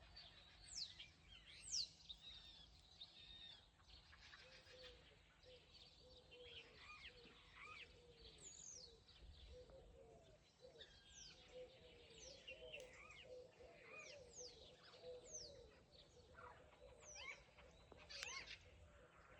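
Several wild birds singing in spring, many quick high whistles that fall sharply in pitch, overlapping one another. A lower, wavering call repeats steadily underneath through the middle of the stretch.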